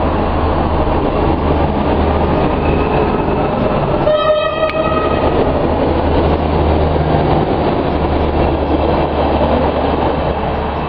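Two coupled Stadler GTW 2/6 diesel railbuses pulling out and passing close by: a steady engine drone and rumble. About four seconds in there is one short toot of the horn, about half a second long.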